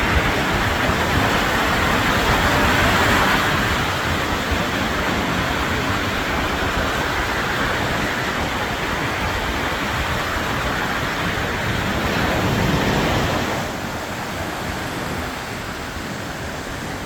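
Steady rushing noise of sea surf washing on a beach, with wind buffeting the microphone; it drops a little in level about fourteen seconds in.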